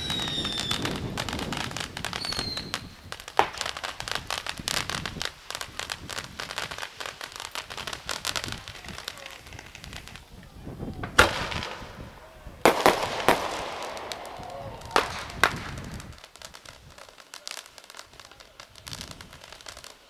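New Year's Eve fireworks and firecrackers: dense, continuous crackling and popping with a few high whistles near the start and several louder single bangs around the middle, thinning out near the end.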